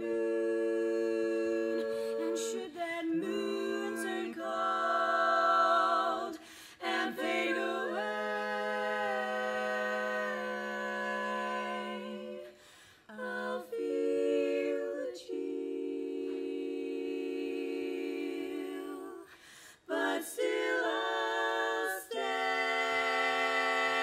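Female barbershop quartet singing a cappella in four-part harmony: long held, ringing chords with short breaths between phrases.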